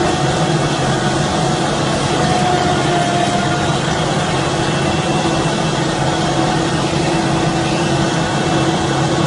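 A heavy vehicle engine running steadily with a constant hum, then cut off suddenly at the end.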